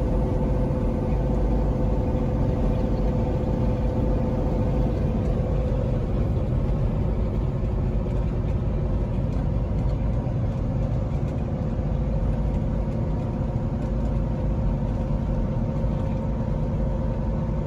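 Heavy truck engine and road noise, a steady loud rumble with a constant hum, cut off abruptly at the very end.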